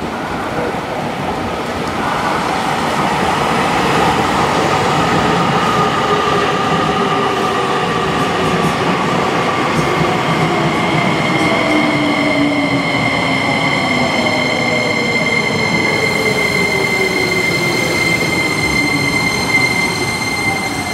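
A JR Kyushu 885-series electric limited express train running past on the rails, its motor whine falling in pitch as it goes. About halfway through, a steady high-pitched squeal joins and holds to the end.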